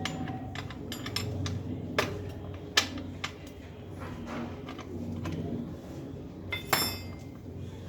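Metal tools and bicycle parts clinking and knocking against each other, a few sharp clinks about two, three and near seven seconds in, over a steady low hum.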